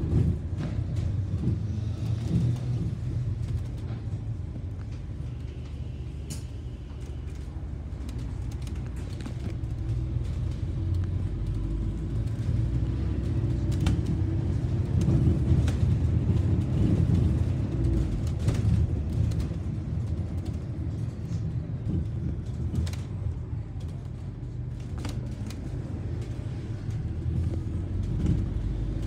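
London bus on route 277 driving, its engine and drivetrain giving a steady low rumble that grows louder in the middle, with occasional clicks and knocks.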